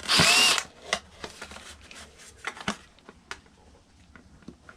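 Cordless screw gun running in one short burst of about half a second with a whine, backing out a screw from a karaoke machine's case. After it come light clicks and knocks of screws and plastic parts being handled.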